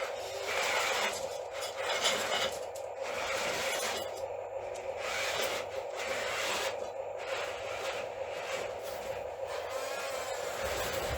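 Radio-controlled model excavator working: a steady motor whine runs throughout, with irregular scraping and rasping surges as it works material.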